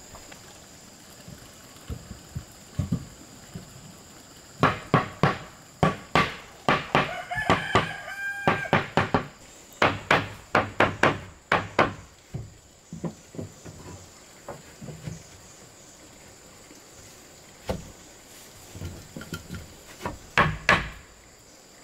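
Clusters of sharp blows on wood, several strikes in quick succession, loudest from about five to twelve seconds in and again near the end. A rooster crows once, about seven seconds in, over the strikes.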